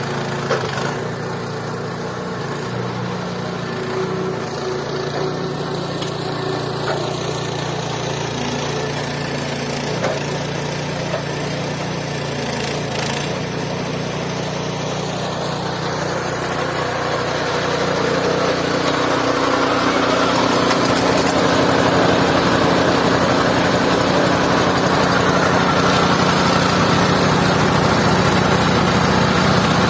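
Engine of a mobile band sawmill running steadily, growing louder and fuller about eighteen seconds in.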